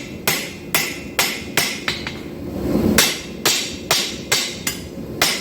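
Hand hammer striking a 5160 steel bar on an anvil, drawing it out into a knife blank. Sharp ringing blows come about two to three a second at an uneven pace, with a short pause about two seconds in.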